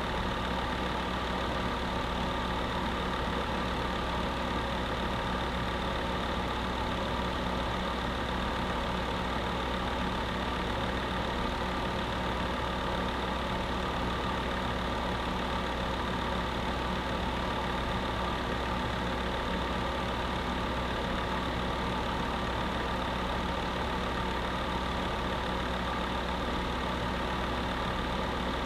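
Electric space heater running steadily: a constant whir with a few steady humming tones underneath, unchanging throughout.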